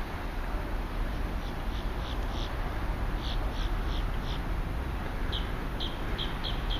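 A small bird chirping: short high notes repeated in uneven runs of about three or four a second, over steady background noise.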